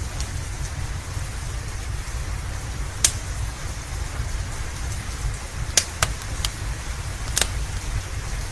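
Steady rain with a low rumble under it, while a wood fire crackles: five sharp pops, the loudest about three seconds in, and a quick cluster around six seconds.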